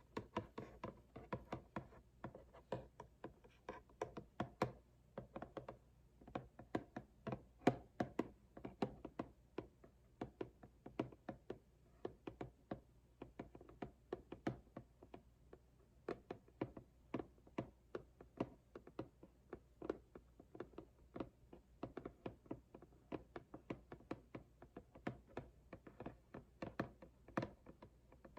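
Fingertips tapping and knocking on the milk frother's cardboard packaging: quick, irregular taps, several a second, with brief pauses between runs.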